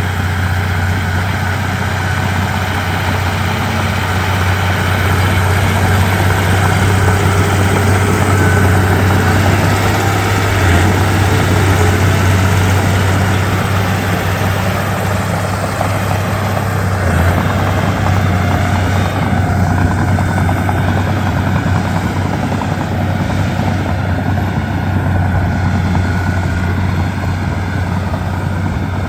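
Komatsu D31P bulldozer's diesel engine running steadily, a deep continuous drone.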